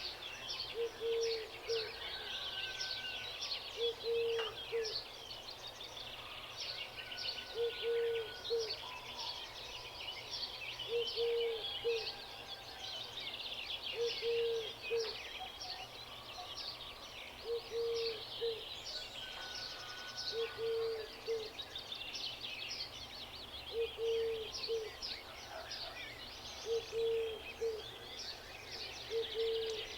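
A dense chorus of small songbirds chirping and trilling, with a low two-note hoot-like call repeated about every three seconds.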